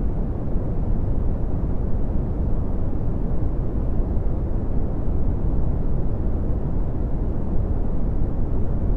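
Steady red (Brownian) noise: a constant deep rumbling hiss, strongest in the bass and thinning out toward the highs, with no changes or events.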